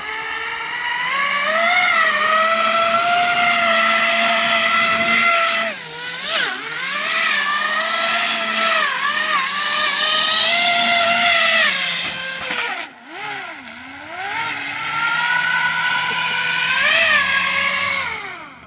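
RC airboat's brushless electric motor and three-blade propeller whining under throttle, the pitch rising and falling as the speed changes. The power drops off briefly twice, about six seconds in and again around thirteen seconds.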